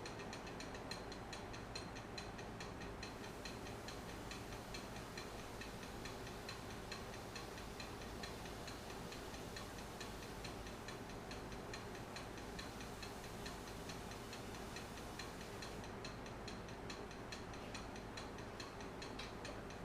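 Wood lathe running at slow speed with a segmented bowl on it, making a light, even ticking about three to four times a second over a low hum.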